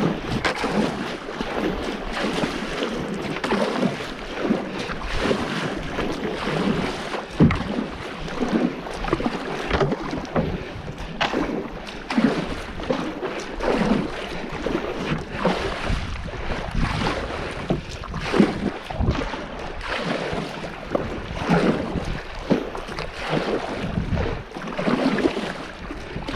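Kayak paddle strokes splashing and churning water again and again, in very shallow river water only inches deep.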